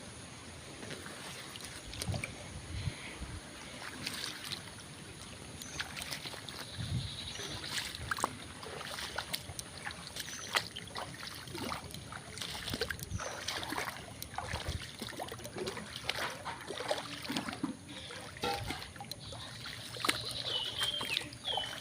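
Water sloshing and splashing in a flooded, waterlogged garden, mixed with rustling and scattered short knocks and clicks.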